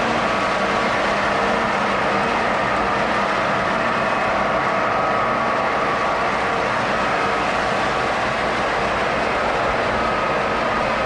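Model train running steadily on its track: a continuous rolling noise with a few faint steady tones through it.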